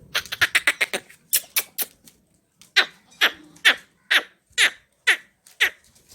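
An animal's short, harsh calls in a rapid series: a fast run of about eight in the first second, three more just after, then seven calls about half a second apart, each dropping sharply in pitch.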